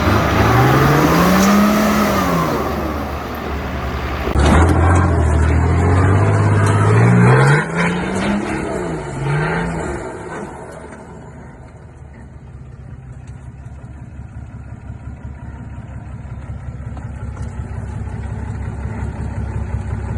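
A 4WD's engine revving up and down several times, then dropping to a quieter, steadier run about halfway through.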